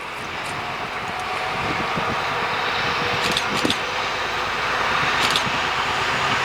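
T448p diesel locomotive hauling a train of empty hopper wagons, running steadily and growing louder as it approaches. A few sharp metallic clicks from the wheels and wagons come through about halfway and again near the end.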